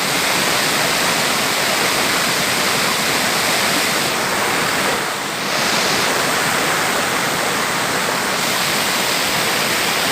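Steady rush of a waterfall, a loud even sound of falling water with a slight dip about halfway through.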